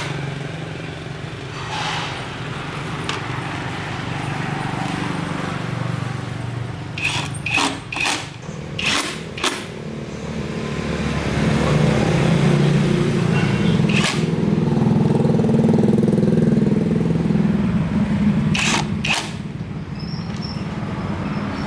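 A motor running with a steady low hum that swells for several seconds in the middle, with sharp knocks or clicks now and then.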